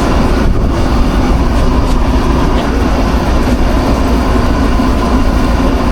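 Food truck kitchen equipment running: a steady, loud mechanical drone, heavy in the low end, with a constant hum through it.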